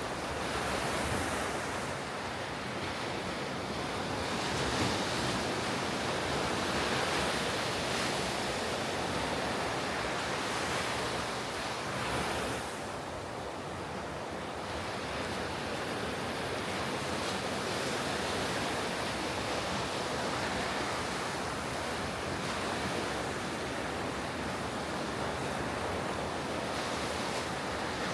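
Ocean surf breaking and washing on the shore, a continuous rushing with slow swells as waves come in, and wind on the microphone.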